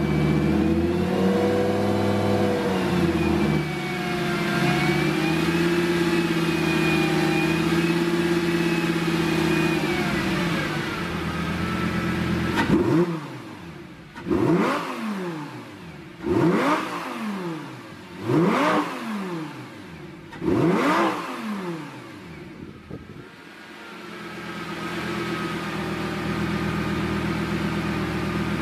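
Lamborghini Gallardo's V10 engine idling, then blipped five times in quick succession, about two seconds apart, each rev rising sharply and dropping straight back, before it settles to a steady idle again.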